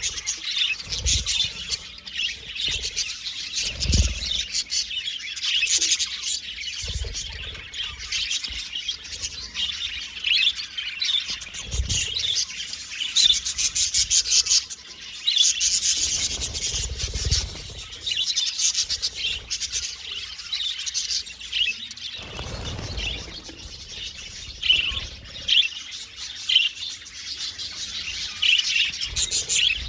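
Budgerigars chirping and chattering continuously in quick, overlapping high calls, with a few brief low thuds mixed in.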